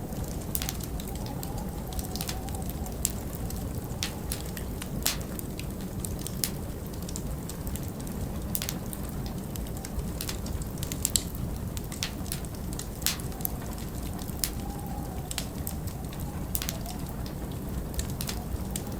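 Wood fire crackling, with irregular sharp pops and snaps over a steady low rumble of storm wind that now and then howls faintly.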